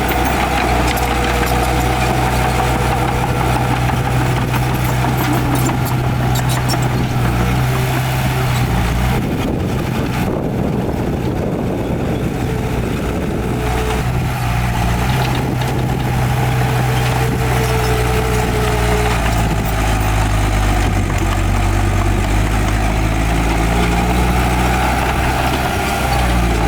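Heavy diesel engine of earthmoving machinery running steadily. Near the middle the engine note changes for a few seconds, its lowest tone dropping away, before it settles back.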